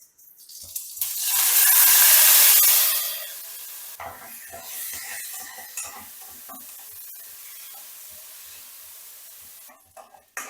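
Food frying in hot oil: a loud sizzle surges for a couple of seconds as it goes into the pan, then settles into steadier, quieter sizzling with crackles, and cuts off near the end.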